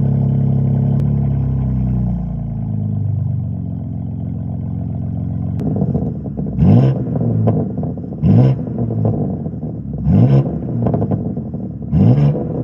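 Car engine running through a Monaco aftermarket exhaust just after a cold start in winter. Its raised cold-start idle settles lower over the first few seconds. From about halfway on come four quick throttle blips, each a short rising rev followed by popping and crackling from the exhaust as the revs fall.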